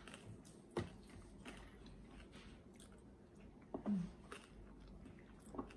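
A person chewing crispy roast pork knuckle crackling, with three short sharp clicks, the loudest about four seconds in.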